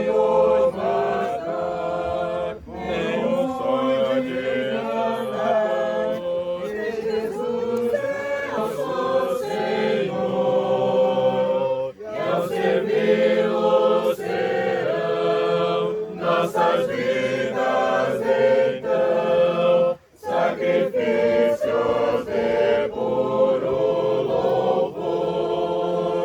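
A group of voices singing a hymn together in Portuguese, line after line with brief pauses between phrases.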